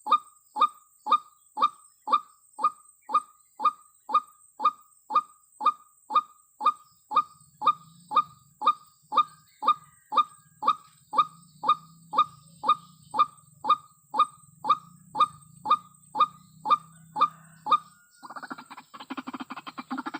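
White-breasted waterhen calling: short falling 'kwak' notes repeated very evenly, about two a second. Near the end the calls switch to a harsh, rapid churring.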